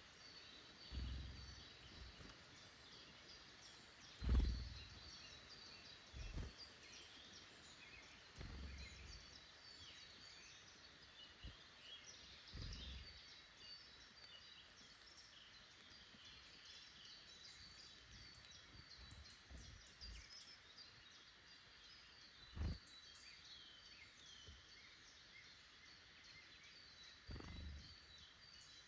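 Small woodland birds chirping and calling continuously, with several short low thumps, the loudest about four seconds in.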